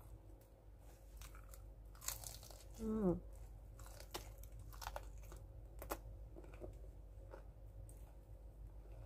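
Close-up crunching bites into crispy KFC fried chicken coating, then chewing, as a string of sharp crackles. A brief falling hum of the eater's voice comes about three seconds in.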